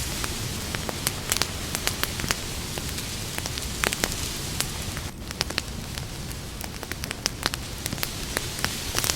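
Campfire burning: wood crackling with many irregular sharp pops and snaps over a steady low rush of the flames.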